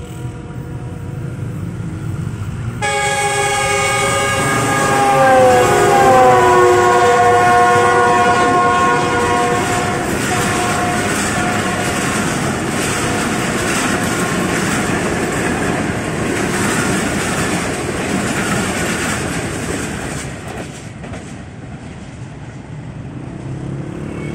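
Passenger express train passing at speed: its diesel locomotive sounds a loud multi-tone horn that drops in pitch as it goes by, then the coaches rush past clattering over the rail joints for about ten seconds before fading away.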